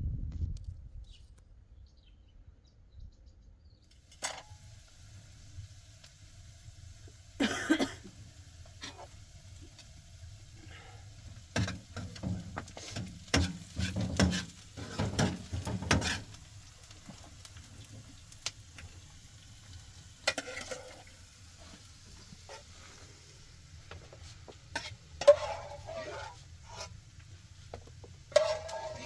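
Cooking sounds: a utensil stirring and clinking against a pot, with scattered knocks of kitchenware and a dense run of clatter around the middle.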